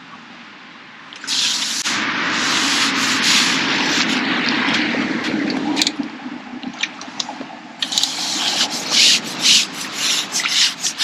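Water splashing and dripping. A dense rushing splash starts about a second in and lasts several seconds, then gives way to irregular smaller splashes and drips.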